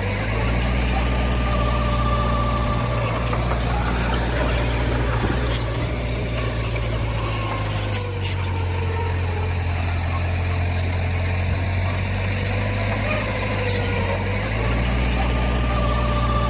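Heavy diesel engine of earthmoving machinery running steadily, its low note shifting a few times, with a few light clicks around the middle.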